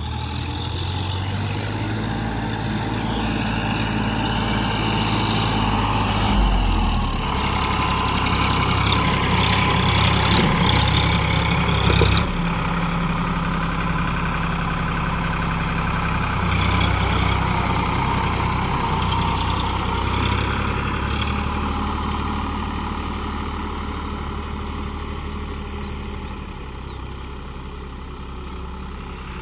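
Sonalika DI 734 tractor's diesel engine running steadily, its note shifting about six seconds in and growing louder until a sharp knock about twelve seconds in, then gradually fading.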